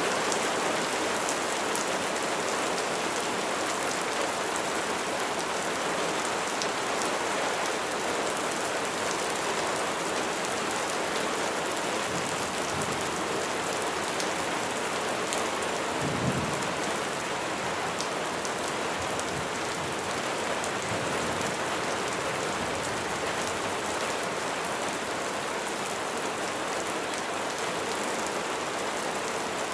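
Heavy rain falling steadily, an even hiss of drops on surfaces. A short low rumble of thunder comes about halfway through.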